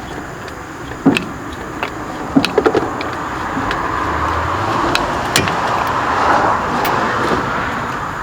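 Sharp metal clicks and knocks of a hand wrench on the engine of a 1983 Yamaha 850 Special as it is worked to turn the seized engine over. A rushing noise swells and fades around it, loudest a little past the middle.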